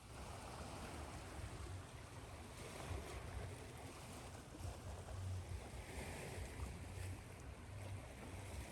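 Ocean surf washing on a shore, a steady rush with a low rolling rumble, mixed with white noise.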